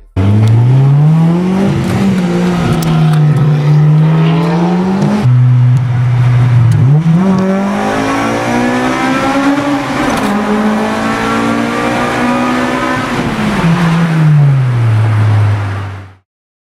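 Honda Integra Type R four-cylinder engine through a Spoon N1 exhaust, driven under load. The revs climb and fall several times, rising sharply about 7 seconds in, holding high, then falling away steadily near the end. The sound is cut together in a few places and stops abruptly just before the end.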